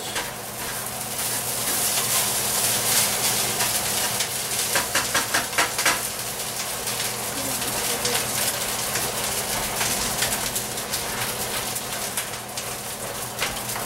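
Rice frying in a little oil in a wok, sizzling steadily, with a run of spatula clicks and scrapes against the pan about five seconds in.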